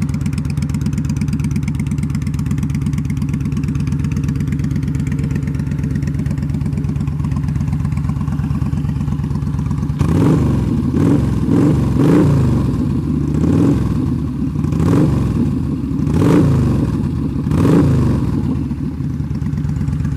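2010 Yamaha V Star 950 V-twin running through a Cobra aftermarket exhaust. It idles steadily for about ten seconds, then is revved in a series of short throttle blips before settling back to idle.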